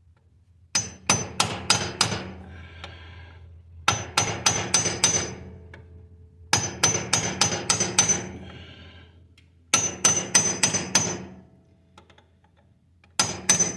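Steel hammer blows driving a roll pin into the front drive shaft yoke of a Kubota BX2200 compact tractor. The blows come in quick bursts of five or six ringing metal strikes, a burst about every three seconds.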